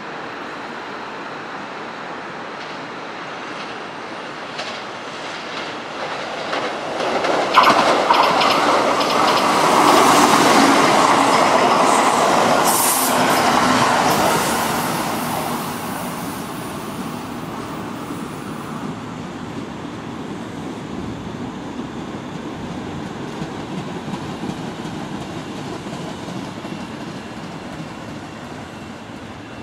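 Kintetsu limited express train passing through the station at speed without stopping. Its wheels clack over rail joints and points as it nears, it is loudest for several seconds, then it fades. A steady, quieter rail rumble from a train on the adjacent viaduct follows.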